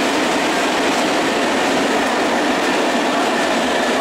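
A freight train of open coal wagons rolling past, with the steady noise of steel wheels running on the rails.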